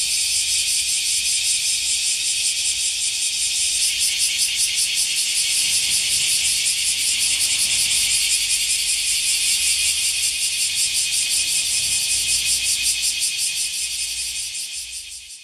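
Male bear cicada (kumazemi, Cryptotympana facialis) calling: a loud, harsh high-pitched buzz with rapid even pulsing, fading out near the end.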